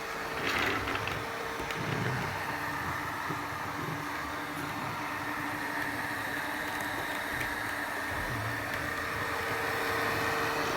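RVC-1600R robot vacuum running steadily: a constant motor and fan hum with a thin whine over it.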